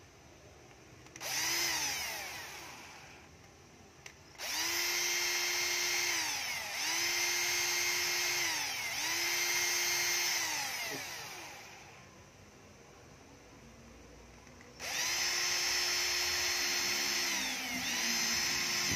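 12V cordless drill/driver motor running in repeated triggered runs, each spinning up quickly to a steady whine and winding down when released: one short run, then three back-to-back runs, a pause, and two more runs near the end. It coasts to a stop rather than stopping sharply, as this drill has no brake.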